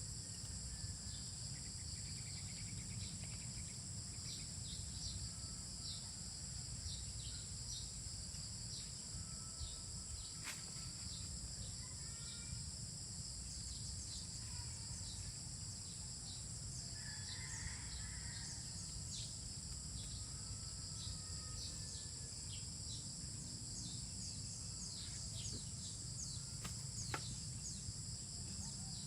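Insect chorus trilling steadily at a high pitch, with scattered short chirps and a few faint bird calls, over a constant low rumble. Two sharp clicks, one about a third of the way in and one near the end.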